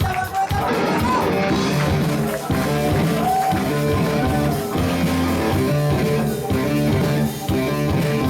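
Live rock band playing, with electric guitar and drum kit and some sung vocal.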